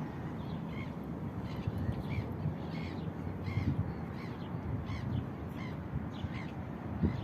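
Common starling calling: a series of short calls repeated about every half second, over a steady low rumble.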